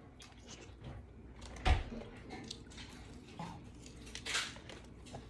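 Handling noises at a meal table: a single heavy thump about a second and a half in, a short hissing rustle later on, and small scattered clicks.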